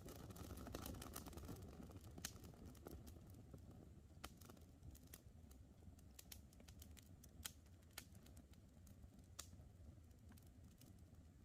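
Campfire crackling faintly: scattered sharp ticks and pops of burning wood over a low, steady rumble of the fire.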